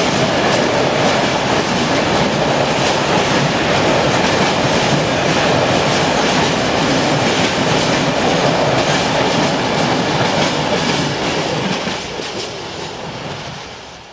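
Freight train of covered hopper wagons passing at speed, a steady rumble with the clickety-clack of wheels over the rail joints. The noise falls off about twelve seconds in and fades out at the end.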